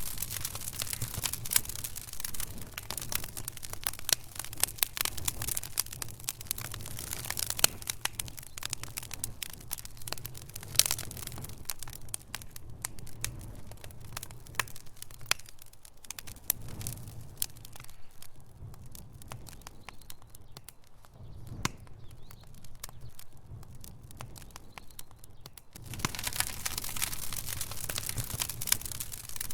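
Wood fire burning in a fireplace, crackling with many sharp pops and snaps over a low rumble. The pops thin out for a stretch in the middle and turn dense again suddenly near the end.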